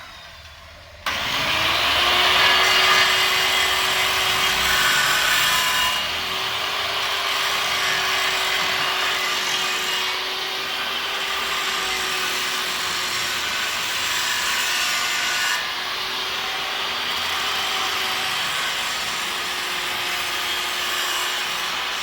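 Electric angle grinder switched on about a second in: its motor spins up to a steady whine and the disc grinds with a loud hiss. The level dips a little a few times as the load changes.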